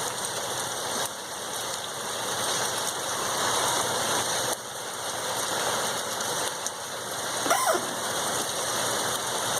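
Heavy rain pouring down steadily in a downpour. A short squeak falling in pitch cuts through it about three quarters of the way in.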